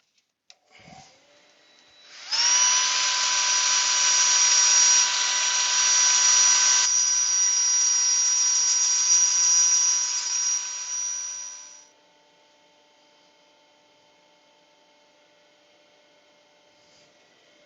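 A power tool, most likely a drill driving a sanding pad, whines loudly for about ten seconds while sanding a spalted beech box on the lathe, then stops abruptly. A faint steady motor hum, from the lathe turning, is heard underneath throughout and carries on after the sander stops.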